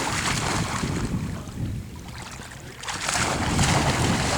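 Wind buffeting the microphone as a low, rumbling gust. It eases off about two seconds in and picks up again about three seconds in.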